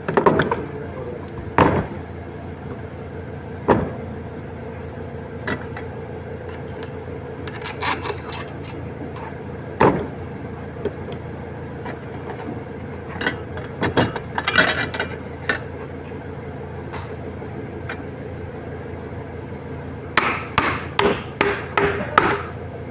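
Hammer knocks on metal while a fan motor's bearings are being replaced: single scattered blows, then a quick run of about eight taps near the end. A steady hum runs underneath.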